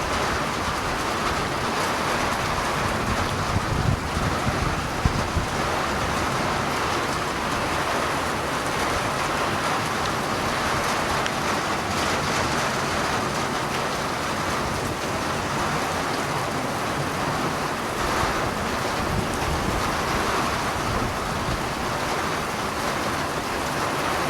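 Steady rain falling, an even hiss throughout, with a couple of brief low thumps about four and five seconds in.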